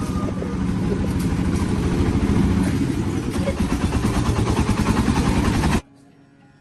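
Tractor engine running loudly with a rapid, even chug, cutting off abruptly near the end.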